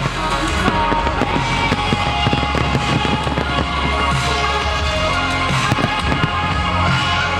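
Fireworks display: many rapid bangs and crackles going off continuously over loud music.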